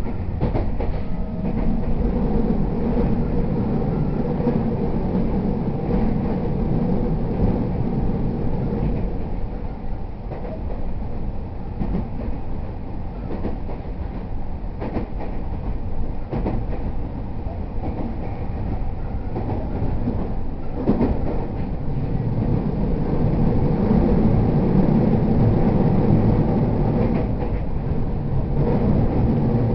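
Running noise inside a JR East E231-0 series commuter train on the move: a steady rumble of wheels on rail, with occasional clicks as the wheels pass over rail joints. The rumble eases a little in the middle and grows louder again near the end.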